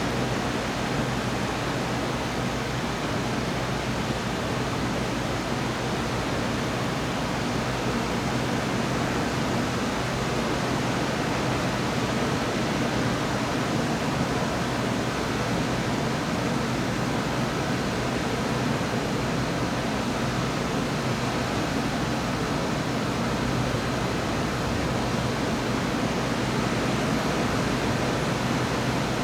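Steady heavy rain pouring down, an even rushing hiss with no thunderclaps, over a faint low hum.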